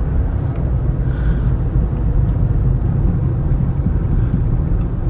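Car driving slowly, heard from inside: a steady low road and engine rumble.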